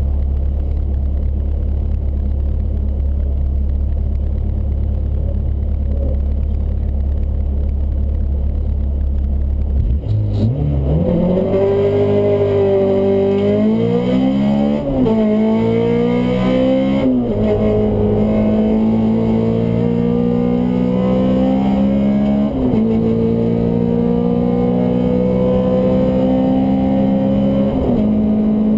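Honda Civic VTi's B16 four-cylinder engine: a steady low drone for about ten seconds, then it revs up hard and accelerates, climbing in pitch and dropping back at each of about four gear changes.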